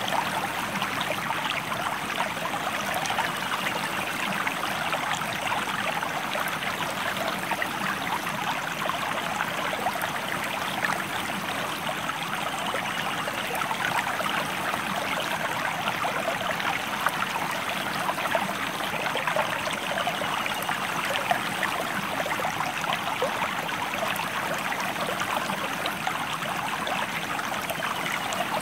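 A river stream flowing, a steady rushing of water with fine splashes and no let-up.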